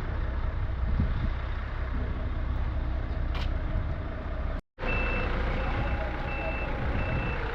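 Truck engine running steadily. After a brief cut about two-thirds of the way through, a reversing alarm beeps evenly, nearly twice a second, over the engine.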